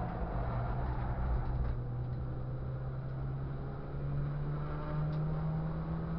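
Ford Fiesta Cup race car's engine heard onboard, pulling steadily through a corner with road and wind noise; its pitch holds low, then rises slowly about four seconds in as the car accelerates.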